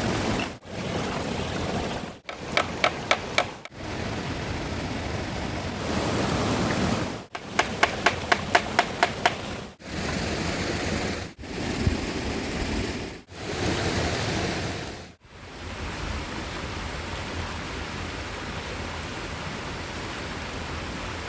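Rushing river water, cut off and resumed abruptly every couple of seconds. Twice a quick run of sharp knocks, about four a second: five knocks, then about eight. The water then runs on steadily near the end.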